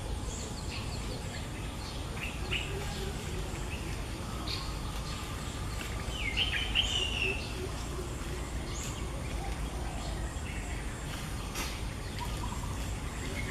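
Scattered short bird chirps over a steady low outdoor rumble, with one louder warbling call about six and a half seconds in.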